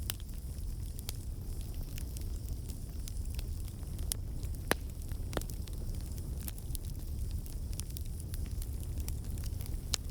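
Campfire burning, with a steady low rumble and scattered sharp crackles and pops; the loudest pop comes about halfway through.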